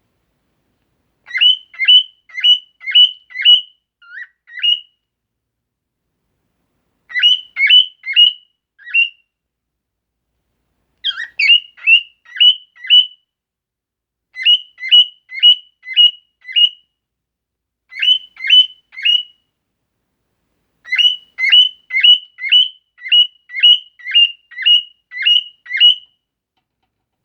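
Bar-winged prinia (ciblek) song: six bursts of three to twelve quick, upswept chirping notes, about three a second, separated by pauses of a second or two.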